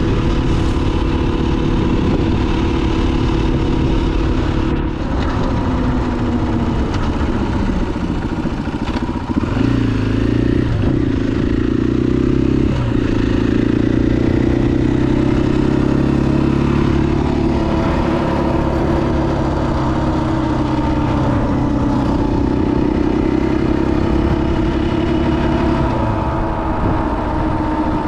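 2021 KTM 500 EXC-F's single-cylinder four-stroke engine running while the bike is ridden, its pitch slowly rising and falling with the throttle. A few sharp knocks come about ten to thirteen seconds in.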